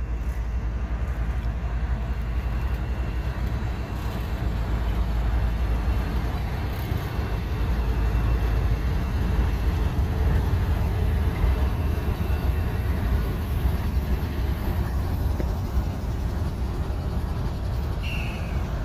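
Train rolling past: a steady, heavy low rumble of the cars on the rails, with a short high squeak near the end.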